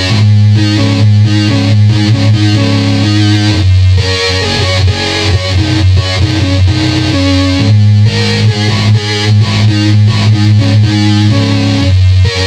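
Circuit-bent electronic keyboard making weird sounds: a run of stepping notes over a loud low sustained tone. The pattern shifts every four seconds or so, like a repeating loop.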